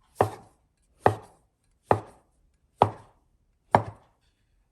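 Slow chopping on a kitchen board: five evenly spaced strokes, about one a second, each dying away quickly.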